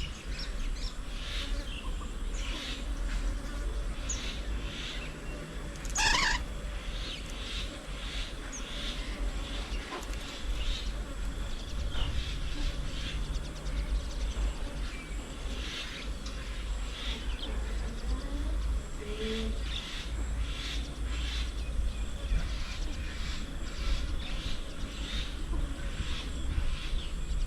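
Birds chirping and calling: many short chirps throughout, with one louder, warbling call about six seconds in, over a steady low rumble.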